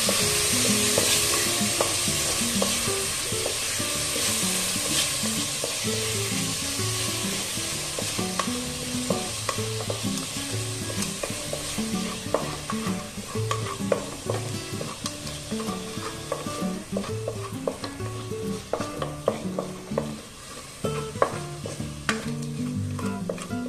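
Chopped tomatoes sizzling in hot oil in a pot while a wooden spatula stirs them, scraping and knocking against the pot. The sizzle slowly dies down, and the clicks of the spatula stand out more toward the end. Soft background music plays underneath.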